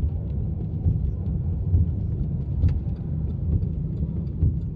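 Inside a moving car: steady low road and engine rumble, with scattered light ticks over it.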